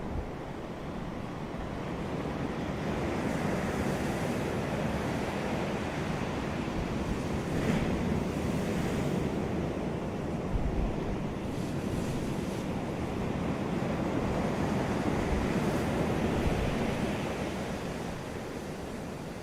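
Surf breaking on a beach: a continuous rushing wash of waves that swells and eases slowly, with brief brighter splashes of breaking water about eight and twelve seconds in. Wind is on the microphone.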